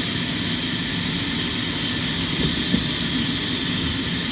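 Sawmill machinery running with a steady drone, with a couple of light knocks about two and a half seconds in.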